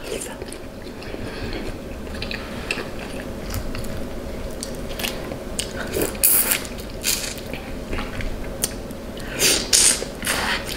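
Close-miked mukbang eating: biting and chewing spicy seafood boil, heard as a run of short sharp clicks, with louder bites about six seconds in and again near the end.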